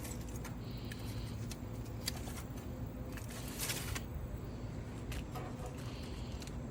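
Scattered light crinkles and taps as aluminium-foil-backed pizza crusts are handled and set onto a grill, over a steady low rumble.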